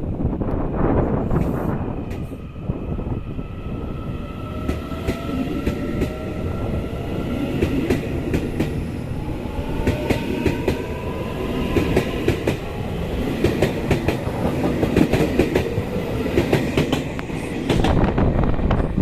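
A train running on the rails, with a steady rumble, the clatter of wheels over rail joints, and several thin whining tones that slowly slide up in pitch.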